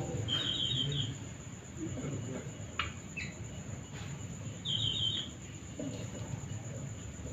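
Male jongkangan (cingcoang) songbird singing a short, quick trilled phrase of high notes twice, about four seconds apart, with a couple of brief sharp call notes in between.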